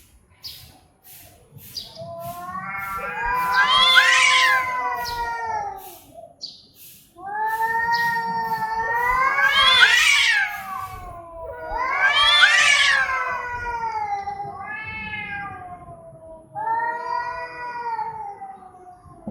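An agitated cat yowling: about five long, drawn-out calls in a row, each rising in pitch and then sliding down, the middle ones loudest.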